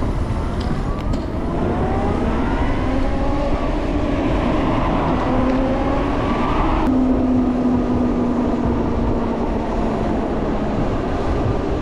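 LiveWire electric motorcycle's drivetrain whining, rising steadily in pitch as the bike accelerates, then cutting off suddenly about seven seconds in when the throttle is closed; a lower steady tone trails off after it. Heavy wind rumble on the microphone throughout.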